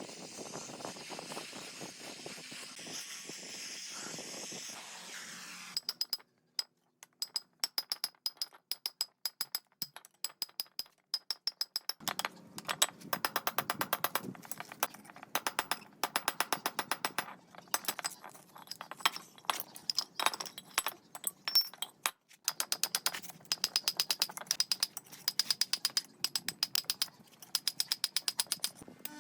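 A steady hiss for about six seconds, then a ratchet wrench clicking in quick bursts with short pauses between them.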